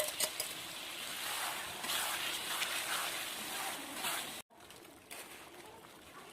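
Chicken sizzling as it fries, a steady hiss with a few clicks. It cuts off sharply about four and a half seconds in, leaving a fainter hiss.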